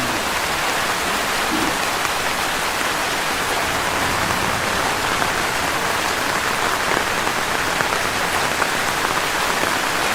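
Steady heavy rain falling and pattering on surfaces, a dense even hiss with no letup.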